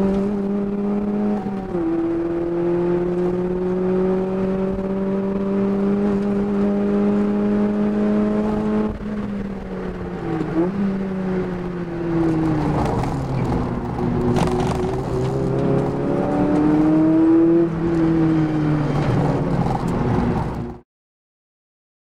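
Toyota Echo's 1.5-litre four-cylinder engine under hard driving, heard from inside the cabin. The revs climb slowly for about nine seconds with a brief dip near two seconds, then fall away, rise again and fall, over road and tyre noise. The sound cuts off suddenly near the end.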